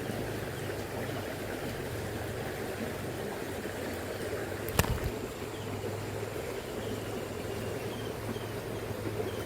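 Shallow river current rushing steadily over stones. About five seconds in there is one sharp knock.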